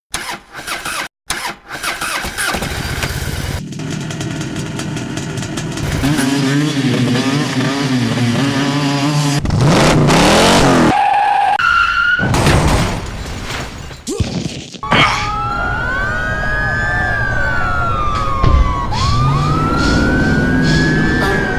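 Motocross dirt bike engines revving and accelerating, in a string of short clips with abrupt cuts between them. In the later clips the engine pitch climbs and drops repeatedly as the throttle is worked.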